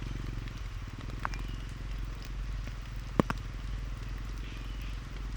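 Motorcycle engine running steadily at low revs, with a few sharp clicks, the loudest about three seconds in.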